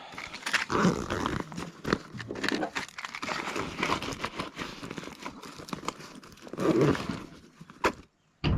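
Gear being handled close to the microphone: crinkling, rustling and many small clicks and knocks, then a short thump near the end.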